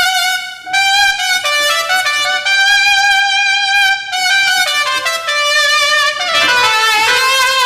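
Roland GW-8 arranger keyboard playing a trumpet-like brass voice: a single melody line of held notes with vibrato, with a short break between phrases twice and a slide down in pitch near the end.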